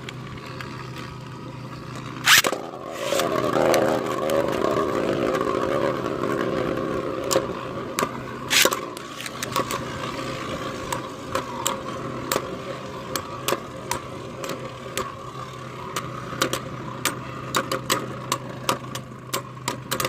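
3D-printed Beyblade spinning tops launched into a plastic Battle Dome stadium with a sharp clack a couple of seconds in. They then spin and scrape across the stadium floor, with many quick clicks as they strike each other, and the sound gradually fades as they lose spin.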